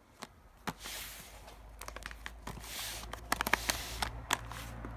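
Firework packaging being handled: crinkling and rustling, with a run of sharp clicks and knocks in the second half.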